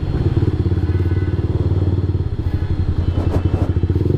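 Motorcycle engine running at low speed in traffic, a steady low throb with quick even pulses that grow more distinct about halfway through.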